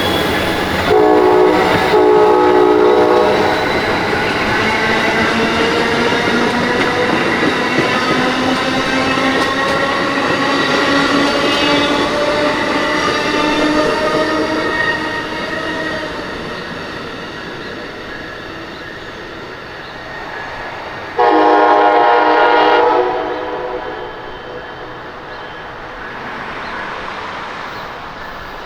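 Amtrak passenger train's horn sounding two short blasts about a second in, then the train running past with tones that slowly drop in pitch, and one more horn blast of about two seconds about three quarters of the way through.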